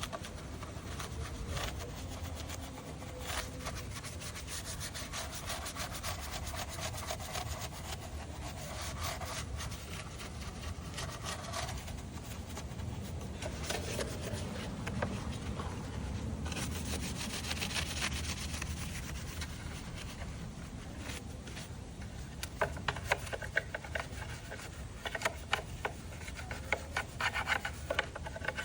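Hand-tool work on a car engine: continuous rubbing and scraping. Irregular sharp clicks and taps come over the last few seconds.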